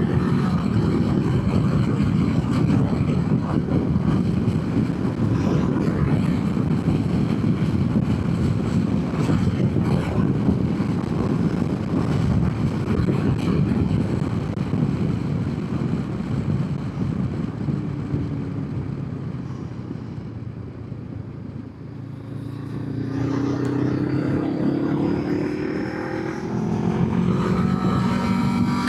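Honda CB500X's parallel-twin engine running under way, heard with heavy wind and road noise. About twenty seconds in it eases off and quietens, then the engine note rises as the bike accelerates, climbing twice with a gear change between.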